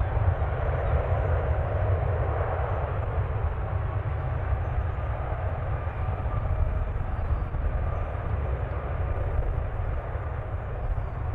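Jet airliner engines, a steady rumble that slowly fades.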